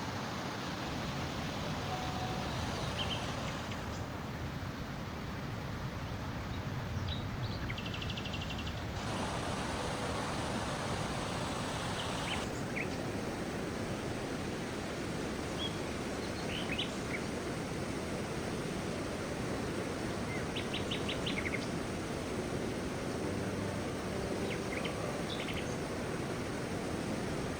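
Small birds chirping in short scattered calls, some in quick rapid runs, over a steady rushing noise.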